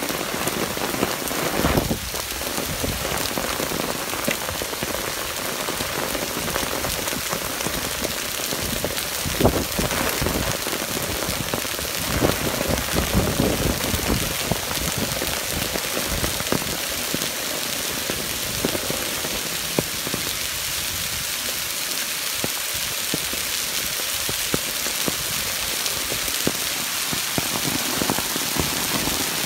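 Heavy rain pouring down onto a wet stone path and trees, a steady, loud hiss, with a few low thumps now and then.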